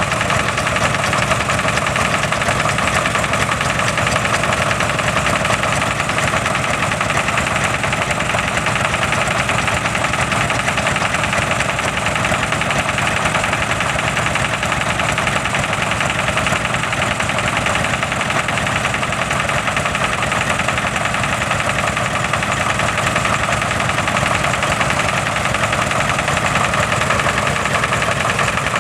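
Vintage Lister and Petter stationary diesel engines running together at a steady idle, a continuous rumble with no change in speed.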